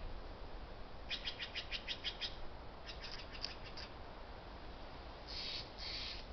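Birds calling: two runs of quick high chirps, then three harsh, raspy calls near the end, over a faint steady background of wind and distant highway noise.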